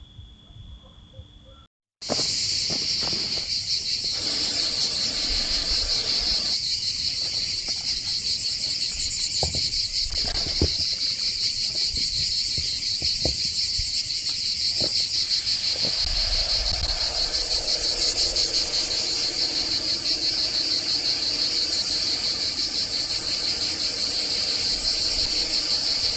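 Steady, dense, high-pitched chorus of insects, with a fine rapid pulse, starting abruptly about two seconds in after a moment of silence. A few faint taps sound in the middle.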